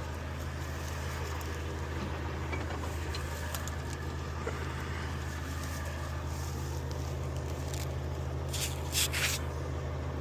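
Recovery truck's engine idling steadily. A few short knocks or scrapes come about eight and a half to nine and a half seconds in.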